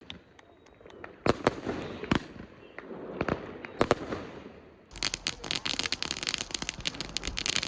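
Fireworks going off: a few faint distant cracks, then several loud separate bangs, then about five seconds in a dense, rapid crackling that keeps on without a break.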